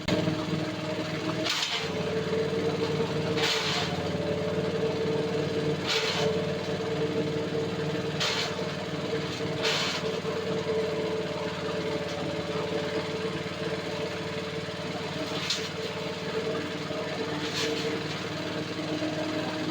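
BM22 forage chopper running steadily under load as elephant grass is fed through it, with a short burst of cutting noise every couple of seconds as stalks hit the blades.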